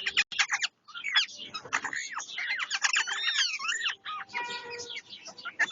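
Parrots squawking and chattering in quick, overlapping, rising and falling calls, as in a squabble.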